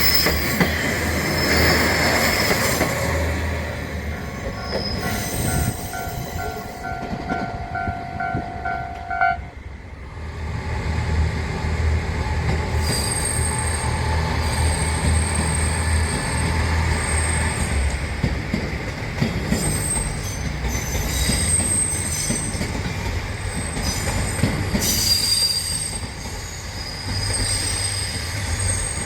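Train moving over the tracks with rail wheels squealing in high, intermittent squeals over a low rumble. In the first third a steady signal tone with a pulsing overtone sounds for about five seconds and cuts off suddenly.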